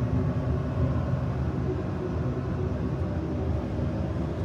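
Newly installed furnace running: a steady low hum with a faint steady tone over it.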